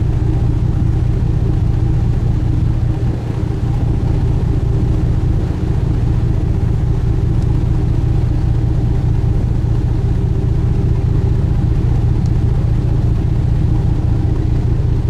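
Engines of a large sightseeing cruise boat running steadily under way: a constant low drone with a steady hum.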